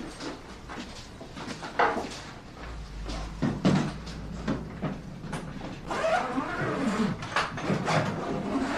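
A run of knocks and clicks from things being handled in a room, like doors and cupboards opening and shutting, with a brief low rumble about three seconds in.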